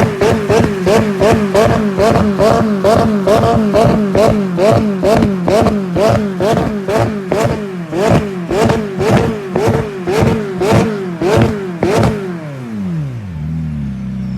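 Turbocharged car engine held at high revs, its pitch rising and dipping about two to three times a second, with a sharp crack each time. About twelve seconds in the revs fall away, settling to a steady idle.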